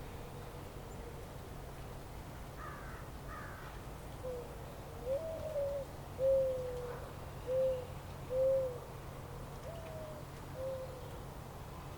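A bird's low hooting coos: a string of soft notes about half a second each, starting about four seconds in, some with a jump up in pitch, over a steady low background rumble. Two faint higher calls come about three seconds in.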